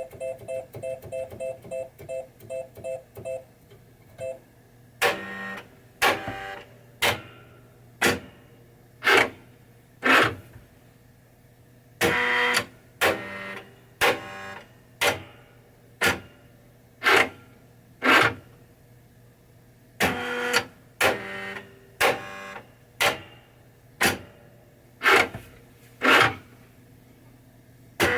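Williams Funhouse pinball machine running a test of Rudy's animated head: a quick run of short electronic beeps for the first few seconds, then short sharp sounds at about one a second as the head mechanism is cycled.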